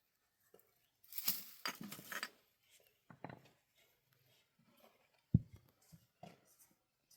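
Intermittent rustling and scraping, with a single sharp low thump a little past the middle.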